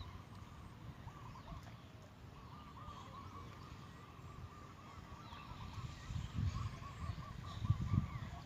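Birds calling in a quick series of short, arched notes, several a second. Strong wind rumbles on the microphone underneath, gusting louder near the end.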